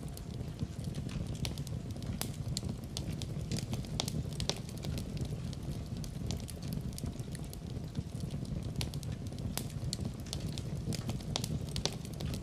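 Fire crackling in a fireplace: frequent irregular sharp pops and snaps over a steady low rumble of the flames.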